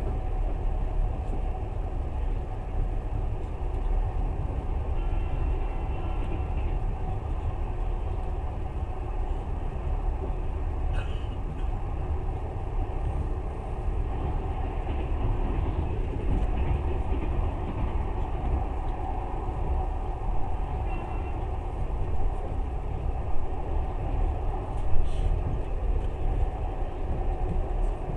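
Passenger train carriage running, with a steady rumble of wheels on rails. A few short knocks come in the second half.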